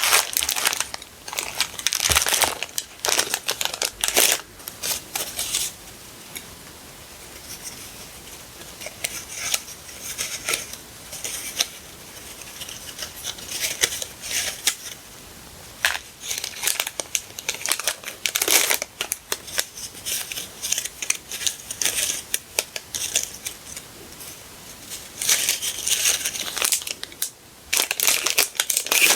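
Crinkling and rustling of paper and plastic sticker packaging being handled, in bunches of crisp rustles with quieter stretches between, loudest at the start and near the end.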